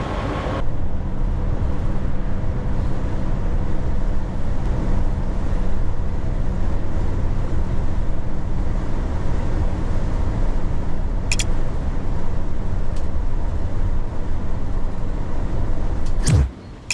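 A moving vehicle, a steady low rumble with a faint constant hum, which cuts off abruptly shortly before the end.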